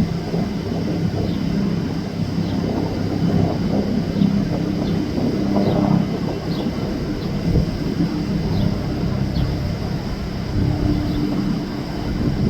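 Low, steady drone of a twin-engine survey vessel's engines, a continuous rumble with a few steady low tones.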